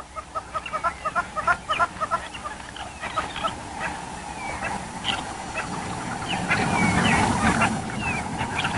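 Spotted hyenas calling together: fast runs of repeated giggling yelps and rising and falling whoops from several animals overlapping, growing louder and busier in the second half.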